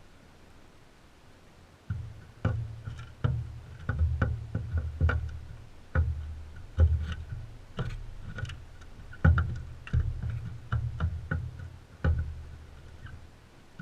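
Irregular knocks and thumps close to the microphone, about sixteen in ten seconds, starting about two seconds in. They fit birds landing, stepping and pecking on a feeder right beside the camera.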